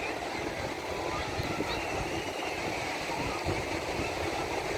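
Steady rushing of sea surf and wind at the shore, with faint distant voices.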